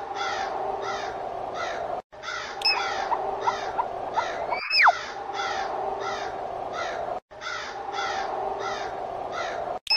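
Spooky sound effect of crows cawing about twice a second over a steady low hum, looped so that it breaks off for an instant about every two and a half seconds. A couple of short whistling pitch glides come in during the first half.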